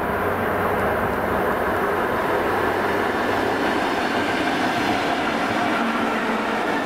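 A train running past on the rails, with a steady rolling noise of wheels on track that grows brighter about two seconds in.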